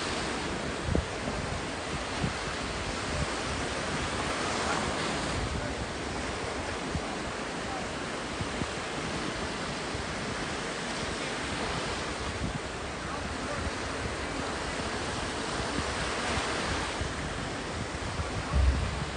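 Sea waves washing onto the shore, swelling every few seconds, with wind buffeting the microphone in low thumps now and then.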